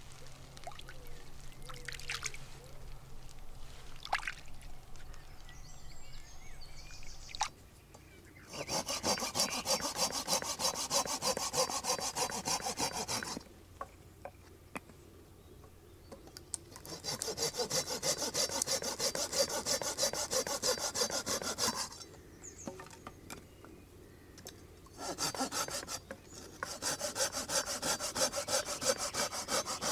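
Hand saw cutting through wood in three long bouts of quick, even strokes, with short pauses between them.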